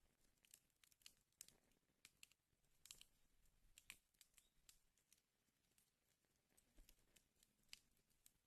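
Wood fire burning in a fireplace: faint, irregular crackles and pops, a few sharper pops about three, four and near eight seconds in.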